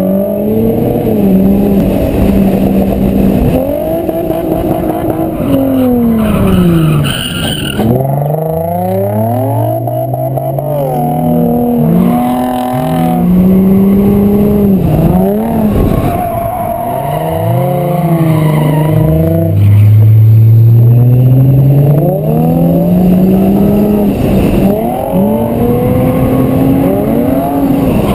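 Car engine revving hard, its pitch climbing and dropping again every few seconds as the throttle is worked through a drift run, with tires skidding.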